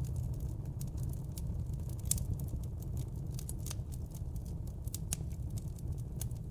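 Wood fire burning in a fireplace, crackling: irregular sharp pops and snaps, several a second, over a steady low rumble of the flames, with one louder pop about two seconds in.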